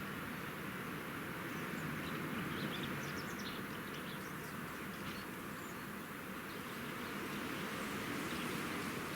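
Outdoor nature ambience: a steady background hiss with brief, faint bird chirps scattered through it.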